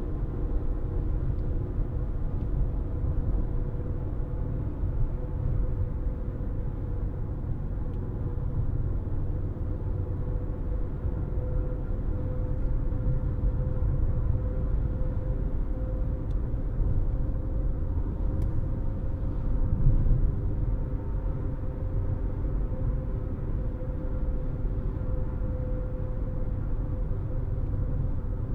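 A car driving along at a steady pace: continuous low rumble of road and engine noise, with a steady hum over it.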